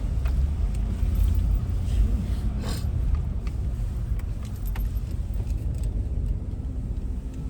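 Car's low steady rumble heard from inside the cabin as it moves up in a drive-thru lane, with one brief noise a little under three seconds in.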